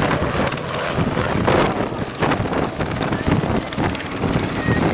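Loud wind buffeting the microphone: a rushing roar with irregular gusts.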